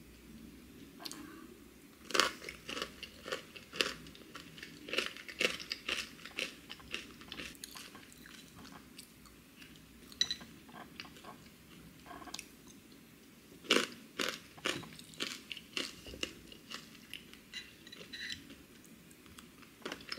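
Close-up chewing of crunchy granola with thick Greek yogurt: runs of crisp crunches about two seconds in, from about five to seven seconds and again after thirteen seconds, with softer chewing between.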